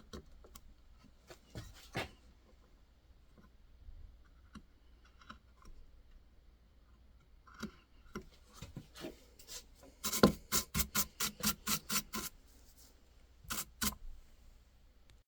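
Carving knife cutting white birch: scattered small scrapes, then a quick run of about a dozen short cuts about ten seconds in, and two more shortly after.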